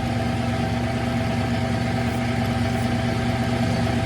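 Smithy CB-1220XL 3-in-1 lathe running during a slow facing cut: a steady motor and gear hum that does not change.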